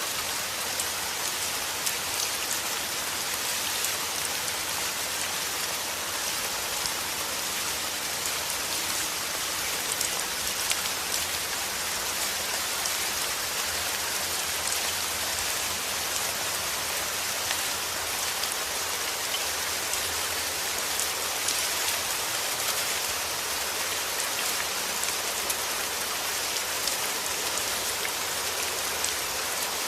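Steady rain falling on a hard surface, an even hiss with many small drop ticks throughout.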